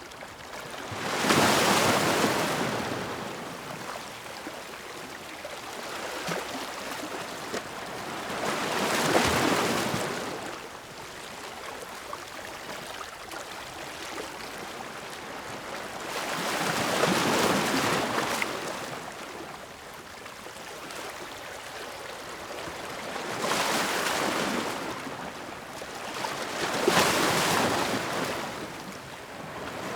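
Ocean waves breaking on the shore, each one a rushing surge that swells and fades, arriving about every seven to eight seconds, with a softer wash of water between them.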